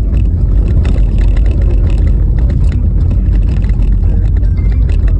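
Car driving over a rough, bumpy snow-covered road: a loud steady low rumble of tyres and road noise, with frequent short knocks and rattles from the bumps.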